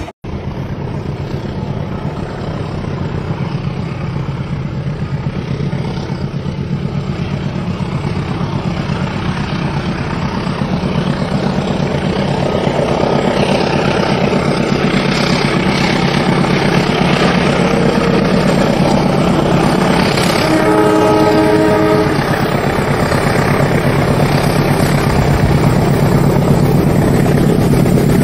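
Train running along the rails with a steady rumbling and rattling that slowly grows louder. Near two-thirds of the way in, a horn sounds for about a second and a half.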